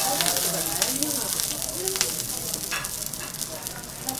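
A long green pepper and a vegetable slice sizzling in hot oil on a teppanyaki griddle, a steady hiss with many small crackles.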